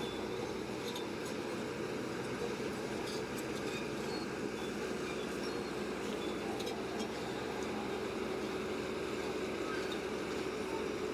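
Heavy earthmoving machine's diesel engine running steadily, with a few faint clicks now and then.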